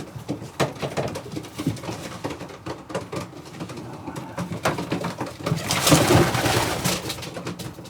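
Domestic pigeons cooing, with scattered clicks and shuffling. About six seconds in comes a loud rustling burst lasting over a second, the loudest sound here.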